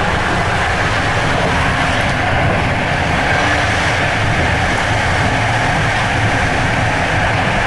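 Steady running noise of a moving passenger train, heard from inside a compartment.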